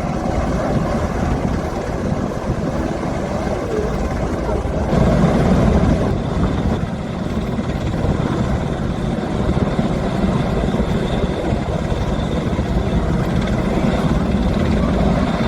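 Steady low engine drone of an aircraft, swelling slightly for about a second around five seconds in.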